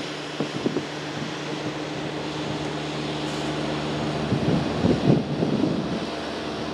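Diesel locomotives of a CSX freight train running with a steady engine drone, with wind buffeting the microphone, gusting harder about two-thirds of the way through.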